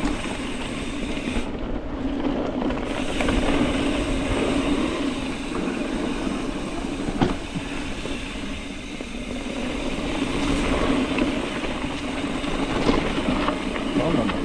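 Mountain bike rolling fast over a dirt trail: steady tyre noise with chain and frame rattle and a constant low hum, and a sharp knock about seven seconds in.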